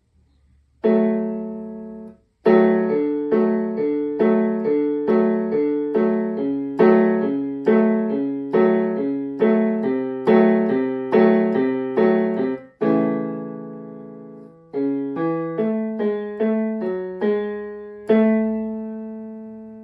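Casio Casiotone CT-S300 keyboard on its piano voice, playing chords in the lower register. Chords are struck in a steady rhythm, then one is held, then a few more notes lead to a final chord left to ring and fade.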